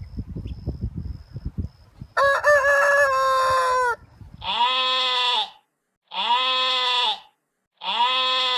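A rooster crows once, a single long call about two seconds in, then a goat bleats three times, each bleat about a second long with short gaps between. Soft knocking and rustling come before the crow.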